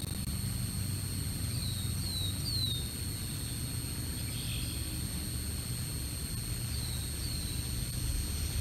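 Small bird giving short, high, down-slurred chirps: three in quick succession about two seconds in and two more near the end. Underneath runs a steady low rumbling noise and a faint steady high electronic whine.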